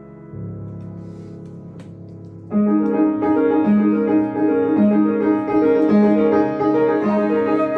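Live jazz on piano: a soft held low chord dies away, then about two and a half seconds in the playing turns louder with a repeating bass figure under rhythmic chords.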